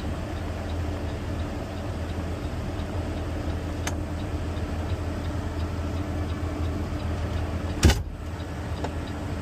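Garbage truck engine and hydraulics running steadily while the packer compacts a trash can in the hopper, with a light click about four seconds in and a sharp loud bang just before eight seconds.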